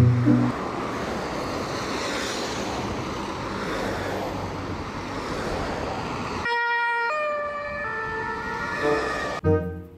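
A convoy of German ambulances driving past with steady road and engine noise and faint sirens. About six and a half seconds in, a two-tone siren comes in clearly, stepping between two pitches, and stops shortly before the end.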